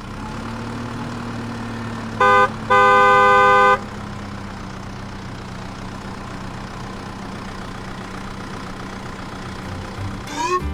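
Cartoon vehicle sound effects: a steady engine hum throughout, with a horn honking twice about two seconds in, a short toot followed by a longer blast. Near the end, quick rising sliding tones begin.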